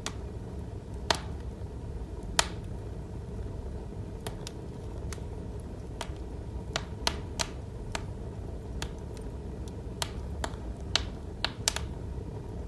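Electric fireplace's crackling wood-fire sound effect: a steady low rumble with irregular sharp pops and snaps, the loudest of them a little over a second and about two and a half seconds in.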